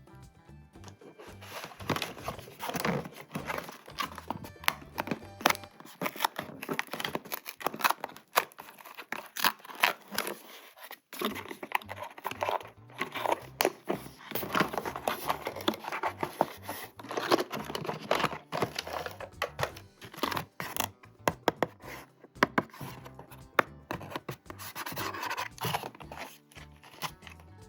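Close-up unboxing sounds of toy packaging: irregular cutting, tearing and crinkling of packaging, with many sharp clicks and scrapes as it is handled. There is a short lull about ten seconds in.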